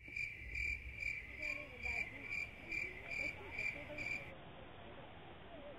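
Cricket chirping, a clear high chirp repeated evenly about two and a half times a second, which stops abruptly about four seconds in and leaves a faint steady hiss.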